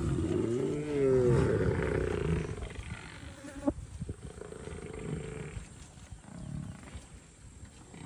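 Leopard growling, a rough pitched call that rises and falls during the first second or so, then fades. About three and a half seconds in there is a single sharp click.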